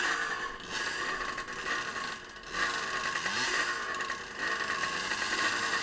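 An off-road vehicle engine working on a trail, heard rough and muffled under scraping and rubbing noise. The engine pitch rises briefly about three seconds in.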